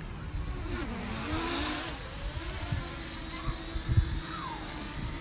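Strong wind buffeting the microphone in gusty rumbles, with a steady engine-like hum in the background. A sharp thump about four seconds in.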